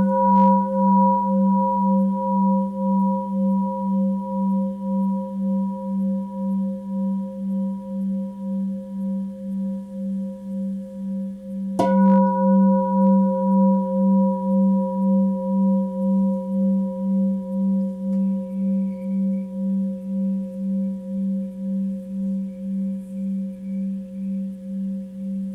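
Tibetan singing bowl ringing: struck once about halfway through, its deep tone and higher overtones hum on with a steady wavering pulse about twice a second, fading slowly between strikes.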